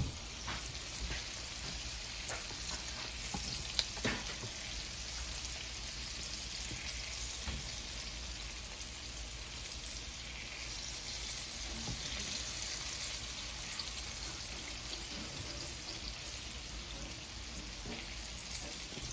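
Chicken feet frying in hot oil in a pan: a steady sizzle with scattered crackles, and a sharper click about four seconds in.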